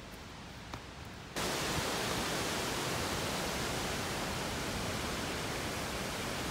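A steady, loud rush of falling water that starts suddenly about a second in, after a quieter hiss.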